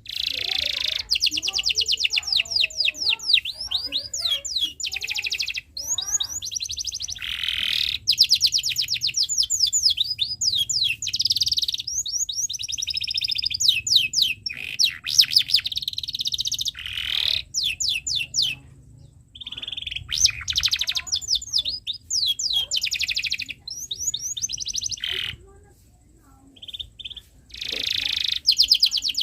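Domestic canary singing: long phrases of rapid high-pitched trills and chirps, breaking off briefly twice in the second half.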